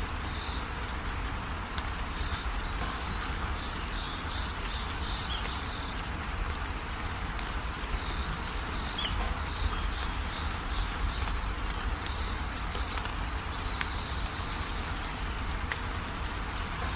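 Steady rain hiss with scattered drips, and a songbird calling in quick runs of short, high chirps twice, for a few seconds each time.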